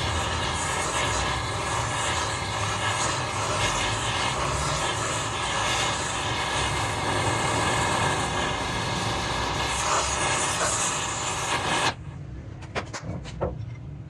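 A workshop machine, most likely the lathe or a grinder working the metal, runs loudly and steadily, then cuts off suddenly near the end. A few light metallic clicks follow.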